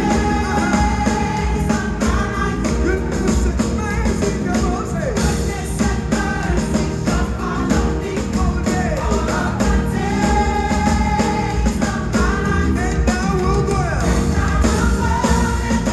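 Live gospel singing with band accompaniment: voices holding and bending long notes over a full band.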